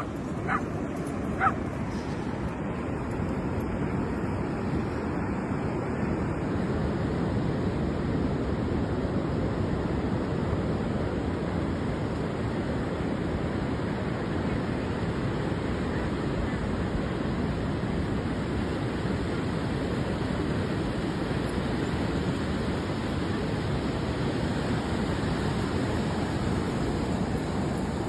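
A dog gives two short barks in the first second or two, followed by a steady rushing noise of surf and wind at the beach.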